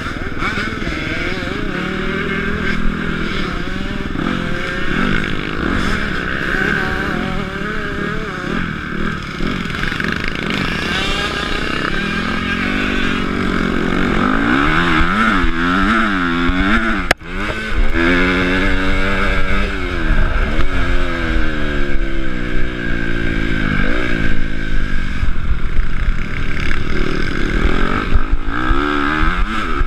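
Honda CRF250 single-cylinder four-stroke motocross engine, ridden hard: the pitch climbs and drops again and again as the throttle opens and closes through the gears. The engine note briefly cuts out about halfway through.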